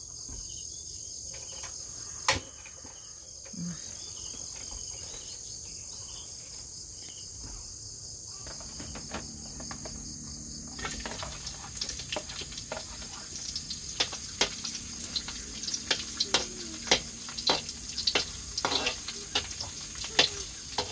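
Chopped onion and garlic hit hot oil in a wok and start sizzling about halfway through, followed by frequent clinks and scrapes of a metal spatula against the wok. A steady high trill of night insects runs underneath.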